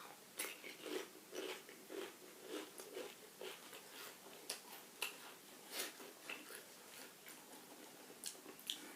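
Pringles crisps being chewed, a crunch about twice a second that eases off after about six seconds, with a couple of sharp crackles near the end.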